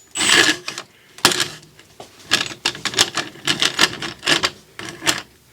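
Irregular clanks and clatters of metal being handled and repositioned on a workbench, a quick run of short knocks with no drill running.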